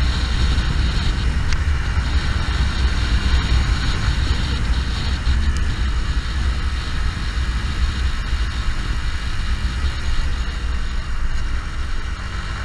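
Motorcycle running on the road, its engine noise mixed with a steady low rumble of wind on the camera microphone.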